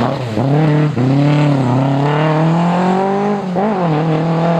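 Historic rally car engine accelerating hard on a stage, its pitch climbing steadily under load. The pitch drops about a second in and again briefly around three and a half seconds before climbing once more, as the driver shifts or lifts.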